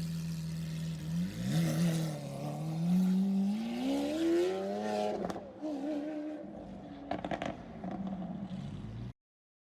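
Lamborghini Aventador's V12 engine idling, then revved: a quick blip about a second in, then a longer climb in pitch that peaks around five seconds and falls back, with a few sharp crackles from the exhaust. The sound cuts out abruptly near the end.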